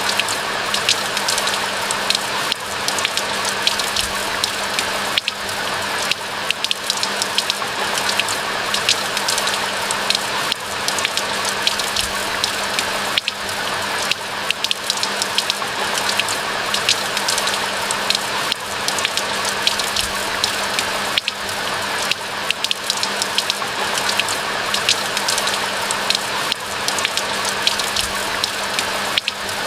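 Steady rain falling, with many sharp, close raindrop hits over a continuous wash of rain noise and a faint, steady low hum underneath.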